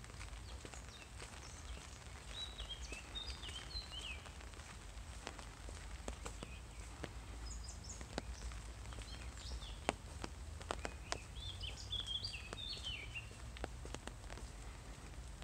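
A songbird singing short warbling chirp phrases, once near the start and again later on. Scattered sharp ticks fall in the middle, over a steady low rumble.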